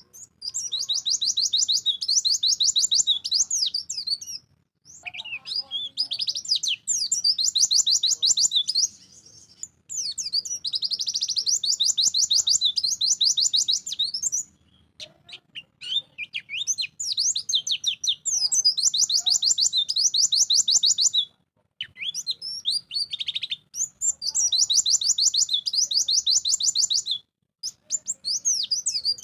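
White-eye (pleci) singing hard and without letup: long, very rapid high-pitched trills, each phrase running several seconds, with short pauses about every five seconds.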